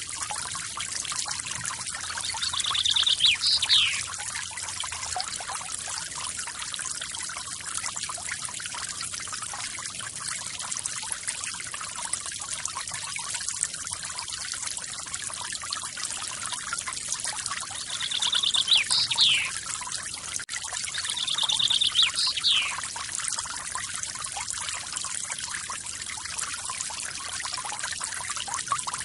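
Forest waterfall splashing and trickling steadily. A bird calls three times over it, once near the start and twice close together past the middle. Each call is a short buzzy trill ending in a quick falling note.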